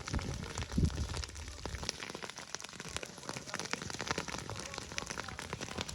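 Dense, irregular crackling and popping of burning dry grass and brush being cleared from farmland, with a few low thumps in the first second.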